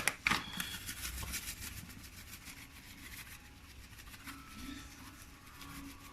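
A spice container handled while seasoning chicken: a few sharp clicks near the start, then faint, scattered light ticks and rustling.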